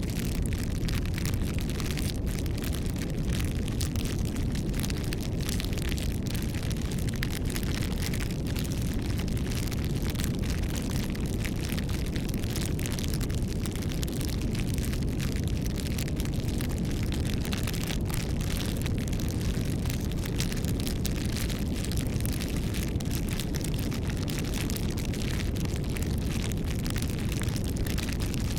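Bonfire burning, with a steady low rumble of flames and many small crackles and pops throughout.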